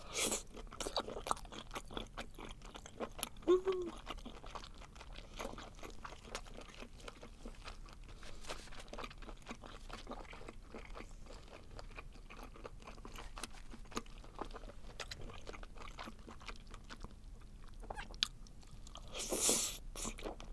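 Close-miked chewing of webfoot (short-arm) octopus: dense small clicks and crunches as the chewy flesh is bitten and worked in the mouth. There is a bite right at the start and a louder rushing sound, about a second long, near the end.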